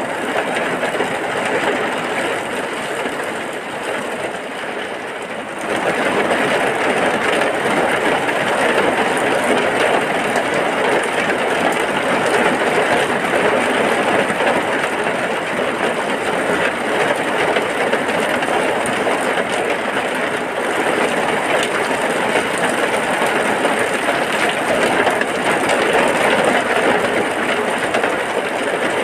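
Heavy rain falling in a steady, dense hiss, which steps up sharply in loudness about six seconds in.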